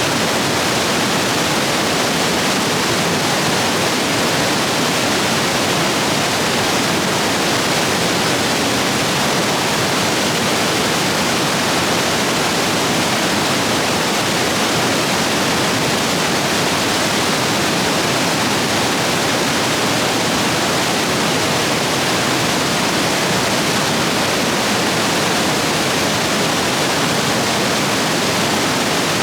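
Stream rapids swollen by heavy rain, rushing over rocks in a steady, loud wash of white water.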